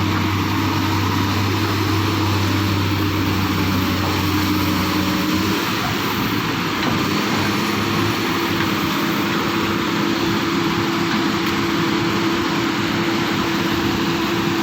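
Excavator's diesel engine running steadily under work, its note shifting about five seconds in.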